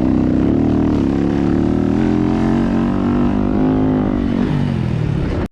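Single-cylinder four-stroke engine of a 2017 Yamaha YZ250FX dirt bike under riding load, its pitch rising and falling as the throttle is worked, easing off near the end before cutting off suddenly.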